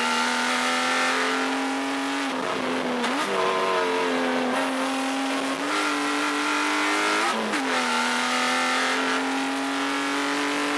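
Subaru EZ30 3.0-litre flat-six in a Porsche 914/6 running hard on track, a steady high engine note that slowly rises in pitch. Twice the note breaks, about two and a half and seven and a half seconds in, dropping and jumping in pitch before settling again.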